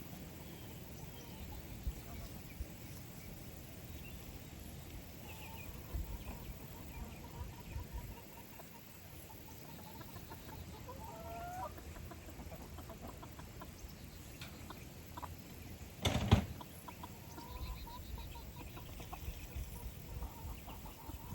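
Chickens clucking on and off in short, soft calls, over a low rumble of handling noise. About two-thirds of the way through there is a single sharp knock or clatter.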